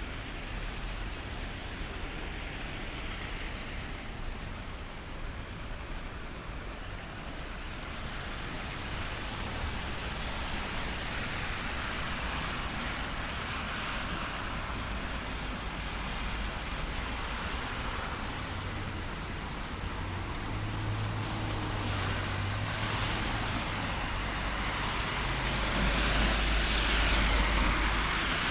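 City traffic on a rain-wet street: a steady hiss of tyres on wet road and rain. A low engine hum sounds for a while past the middle, and a vehicle passes louder near the end.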